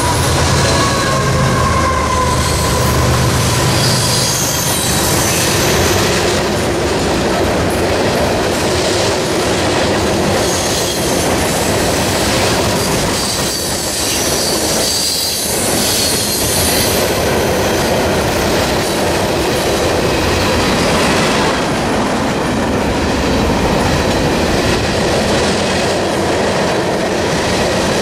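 Freight train passing at speed. For the first few seconds the diesel locomotives at the head of the train hum past. After that, a long string of freight cars rolls by with steady wheel-on-rail rumble, clickety-clack over the rail joints and intermittent high-pitched wheel squeal.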